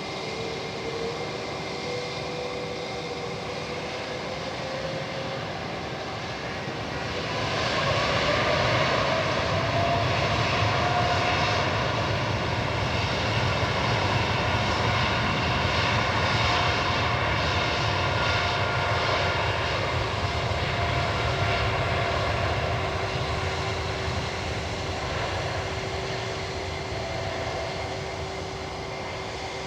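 Boeing 787 jet airliner's engines at take-off power. The roar swells about eight seconds in and stays at its loudest for some twelve seconds as the jet passes, then slowly fades, with whining tones gliding upward in pitch.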